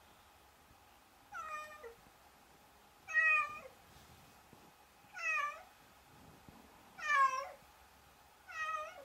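A domestic cat meowing five times, each meow about half a second long and dropping in pitch at its end, about every two seconds.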